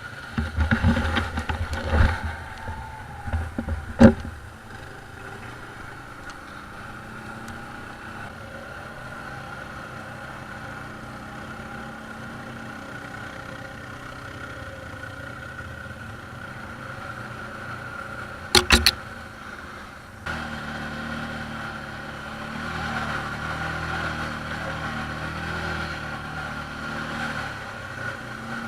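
ATV engines: one is revved hard in bursts in the first few seconds, with a sharp knock at about four seconds. Then engines run steadily, with a short loud burst near the middle. From about two-thirds of the way in, a deeper engine note comes in and grows louder.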